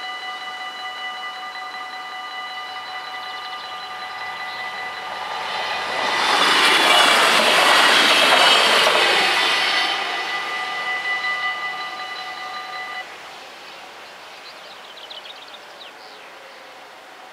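Level-crossing warning bells ringing a steady tone while an Alstom LINT 41/H diesel multiple unit passes, the noise of the train building to its loudest for about four seconds in the middle. The bells cut off suddenly about three-quarters of the way through, once the train has cleared.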